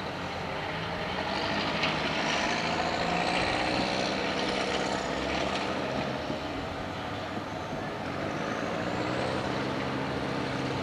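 Diesel locomotive engine running steadily, with a high whine that rises twice.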